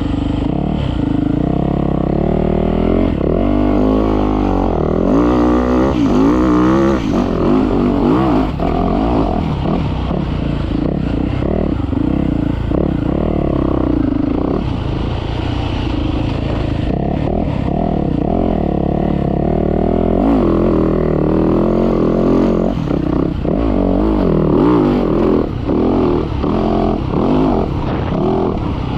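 Motocross dirt bike engine revving up and down continuously as it is ridden around a sand track, the pitch rising and falling with throttle and gear changes.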